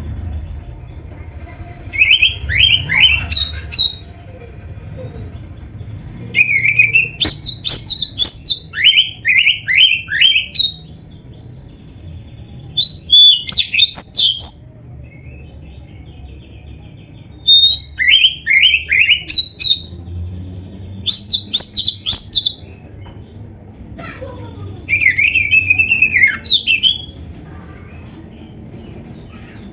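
Oriental magpie-robin (kacer) singing energetically in repeated bursts of rapid, high whistled and scratchy notes, each phrase a second or a few long, with pauses of a few seconds between. A faint low hum lies underneath.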